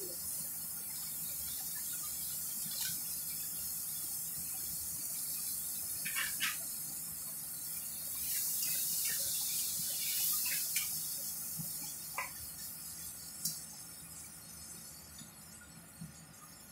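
Vegetables sizzling as they are stir-fried in a stainless steel pot, with a few clinks against the pot. The sizzle grows louder midway, then fades toward the end.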